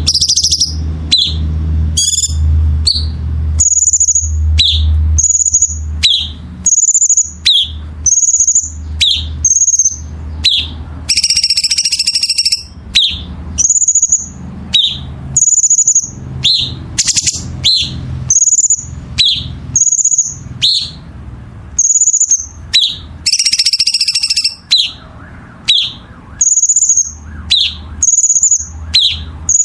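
A songbird singing loudly and persistently, repeating short calls about once a second: a high note alternating with a quick downward-sweeping whistle, broken twice by a longer buzzy phrase. A low hum runs under the first few seconds.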